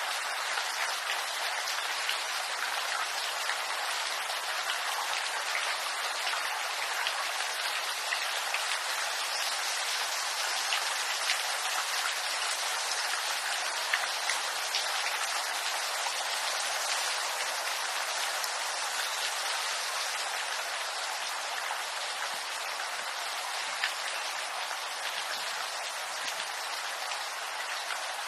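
Steady rain falling on bamboo leaves: a continuous even hiss scattered with small drop ticks.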